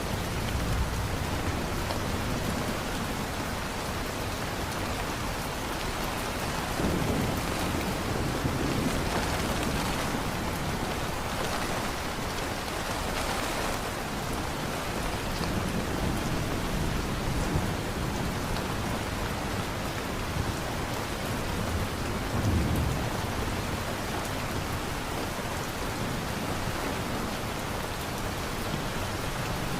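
Steady heavy rain falling on surfaces, with low rolls of thunder swelling and fading a few times, about 7, 16 and 22 seconds in.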